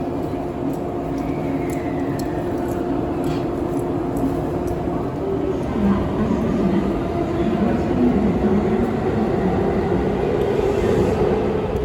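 JNR 115 series electric train running, heard inside the carriage: a steady rumble of wheels and running gear under a humming motor tone, which gets somewhat louder and changes pitch about halfway through.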